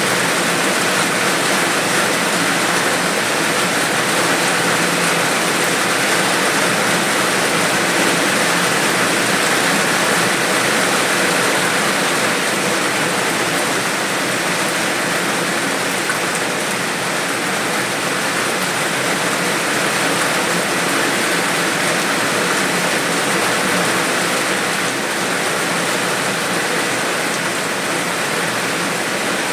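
Steady rain falling, a continuous even hiss with no thunder or separate drips standing out.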